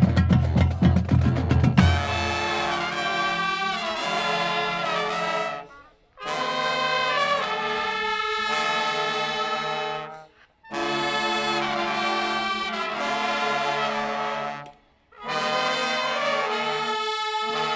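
High school marching band brass (trumpets and trombones) playing held chords in three phrases of about four seconds, each cut off with a short break. Drums play over the first couple of seconds.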